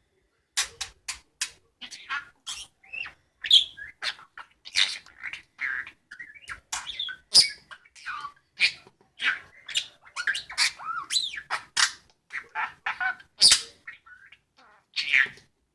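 Pet budgerigar chattering and chirping: a fast, unbroken stream of short, sharp chirps and clicks.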